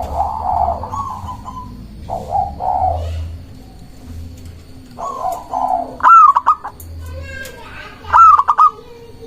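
Zebra dove (perkutut) cooing in short rolling phrases, with two loud, sharp, higher-pitched calls about 6 and 8 seconds in.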